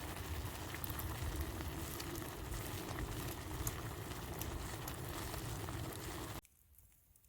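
Steady sizzling hiss with scattered sharp crackles from cooking over a campfire. It cuts off abruptly near the end.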